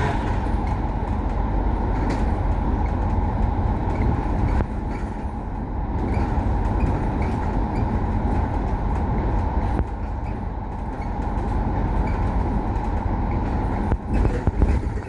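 A Kowloon Motor Bus running on the road, a steady engine and road rumble, growing briefly louder near the end.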